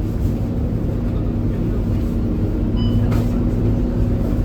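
Scania K230UB city bus heard from inside while under way: its five-cylinder diesel runs with a steady low drone. A short high beep comes a little under three seconds in, followed by a brief click.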